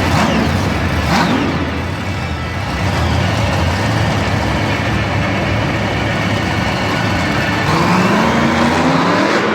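Monster truck's supercharged V8 engine revving hard through a run, with a steady low drone under it. The revs swing up and down, and there is a long climb in pitch near the end.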